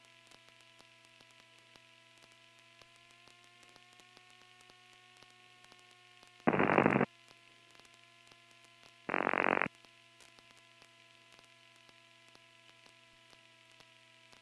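Faint steady drone of a Piper Archer's engine heard through the headset intercom, rising slightly in pitch a few seconds in. Two short bursts of aviation radio static cut in, about 6.5 and 9 seconds in, each lasting about half a second.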